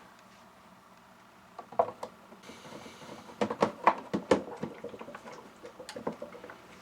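Hard plastic parts of a Honeywell HWM-910 warm mist humidifier knocking and clattering as they are handled and fitted together: a string of sharp knocks and clicks starting about a second and a half in, busiest in the middle and tailing off near the end.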